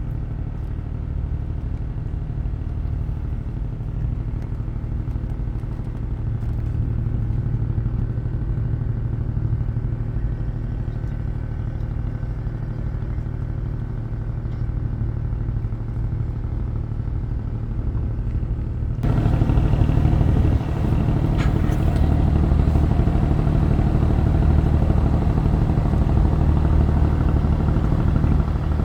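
A steady low engine drone, like a vehicle running. It turns suddenly louder and fuller about two-thirds of the way through.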